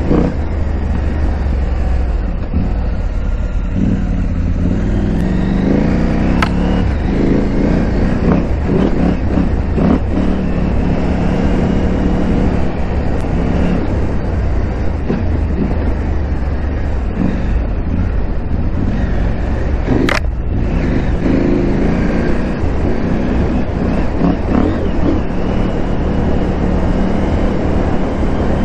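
KTM 890 Adventure R's parallel-twin engine running while riding, its pitch rising and falling with the throttle. There is a sharp click about twenty seconds in.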